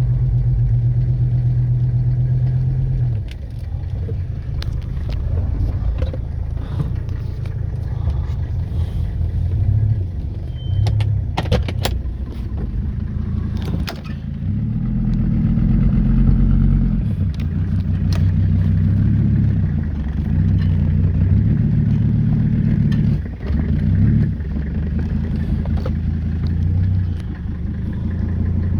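Mercedes car engine idling, its low note shifting a little a few times, with a few sharp clicks or knocks around the middle.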